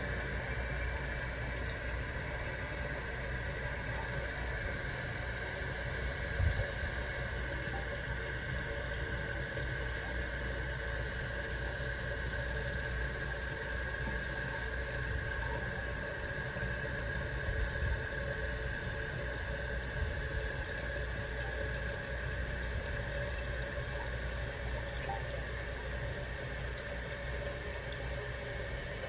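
Toilet tank refilling through a new fill valve opened all the way: a steady hiss of water running into the tank, with a steady high tone in it. A brief knock comes about six and a half seconds in.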